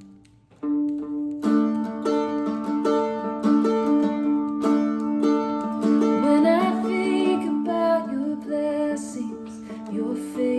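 Mandolin playing the slow instrumental intro of a worship song: single plucked notes over a sustained low chord, starting about half a second in.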